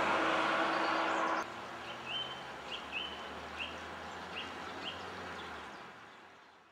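A small bird chirping repeatedly outdoors, short rising chirps about one every half second. It is preceded, for about the first second and a half, by a louder steady rushing noise with a low hum that cuts off abruptly; the sound fades out near the end.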